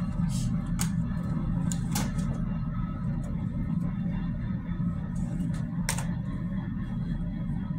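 Providence and Worcester freight train rolling past with a steady low rumble, broken by a few short, sharp metallic clicks and squeals about one, two and six seconds in.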